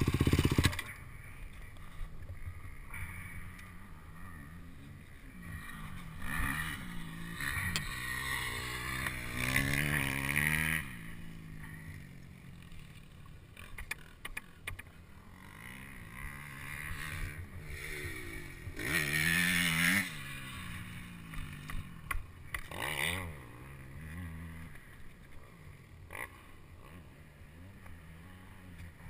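Motocross bike engines revving and passing at a distance, their pitch rising and falling, loudest about ten seconds in and again about twenty seconds in.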